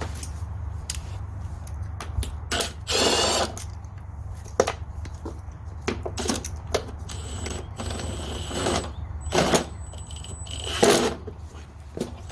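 Power drill backing screws out of a lawnmower's belt cover in several short bursts, each under a second, with sharp clicks and knocks of the bit and screws between them.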